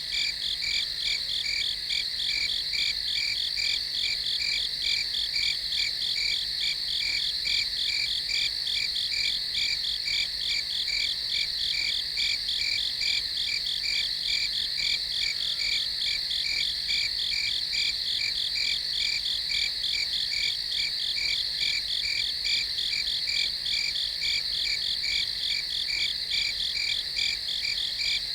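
Night chorus of crickets: a steady, high-pitched trill with an even, rapid pulsing that never lets up.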